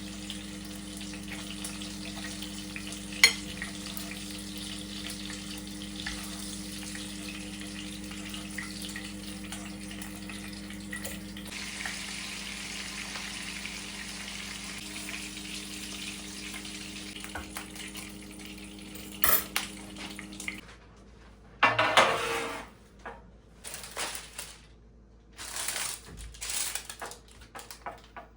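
Food sizzling as it fries in a pan over a steady hum from a kitchen appliance, with a sharp click about three seconds in. About two-thirds of the way through the hum stops and pots and dishes clatter several times.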